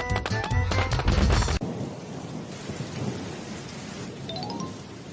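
Loud music with heavy hits cuts off suddenly about a second and a half in, giving way to a steady rain and thunderstorm sound effect. A short rising run of notes sounds near the end.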